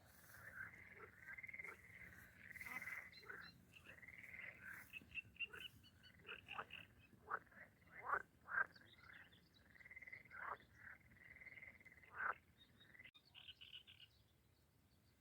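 Frogs calling by the water: faint, repeated croaks overlapping one another, with a few louder calls about 8 and 12 seconds in, dying away near the end.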